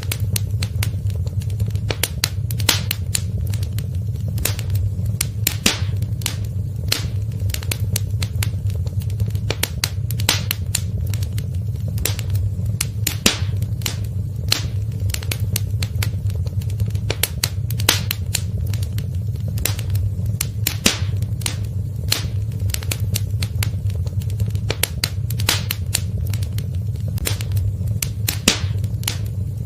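Wood fire in a fireplace crackling: irregular sharp snaps and pops over a steady low rumble of the flames.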